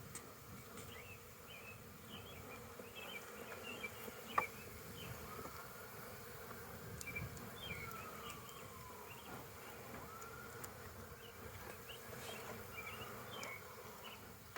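Honeybees buzzing in numbers around an opened hive, with single bees droning past, their pitch rising and falling. The colony is agitated, which the beekeeper reads as stress from being disturbed. A sharp click about four seconds in.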